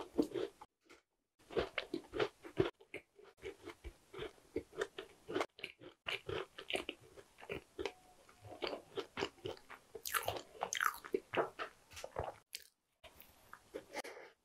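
A person chewing a piece of tart with a pastry crust: an irregular run of small crunches and crackles as the crust is chewed, with a fresh bite near the end.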